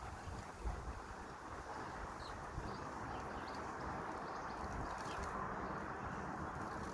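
Steady outdoor background noise with a few faint short bird chirps.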